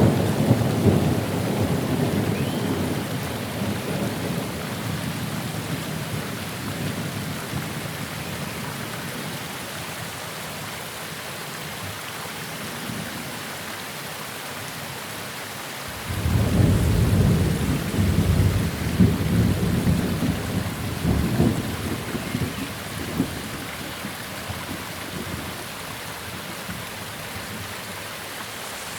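Steady rain with thunder. A rumble fades away over the first several seconds, then a new peal breaks in suddenly about halfway through and rumbles on for several seconds before dying down.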